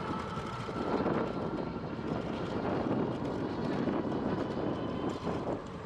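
Steady rushing wind and road noise from riding an electric bike, with a faint steady whine underneath.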